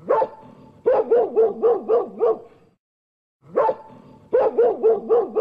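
Dog barking: one bark, then a quick run of about six barks, and the same pattern again after a short pause.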